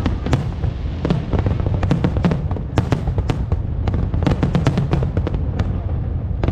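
Fireworks display: rapid, sharp crackling bangs, several a second, over a continuous low rumble of shell bursts.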